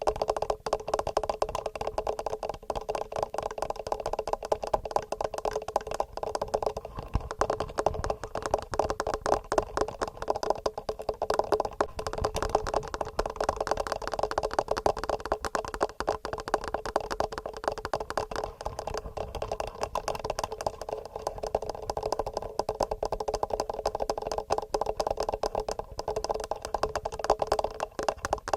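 Fast, regular fingernail tapping on a TASCAM recorder and its microphone, heard as a dense, unbroken stream of quick clicks.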